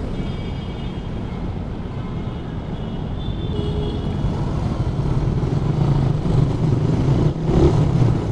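Suzuki Raider 150 motorcycle's single-cylinder four-stroke engine running steadily under way, with road and wind noise; it grows a little louder toward the end.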